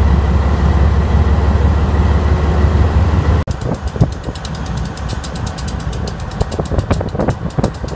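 Diesel locomotive engine running with a deep, steady rumble that cuts off suddenly about three and a half seconds in. A quieter stretch of rapid clicks and knocks follows.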